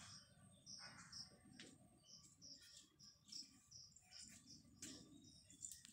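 Faint small-bird chirping: short high notes repeated in quick series.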